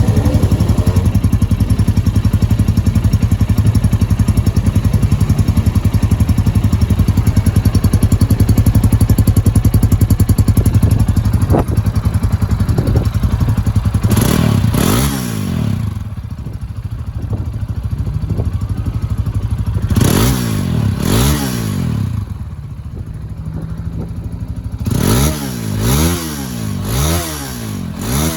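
Gilera SMX 250 motorcycle engine idling steadily, then revved in quick throttle blips: a pair about halfway through, another pair a few seconds later, and a run of four near the end, each rising and falling back to idle.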